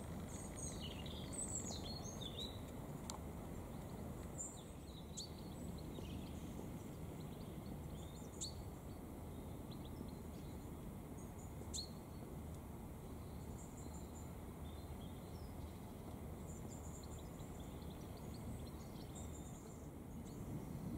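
Outdoor ambience: a faint steady low background noise, with short high bird chirps scattered through it, a cluster of them in the first few seconds.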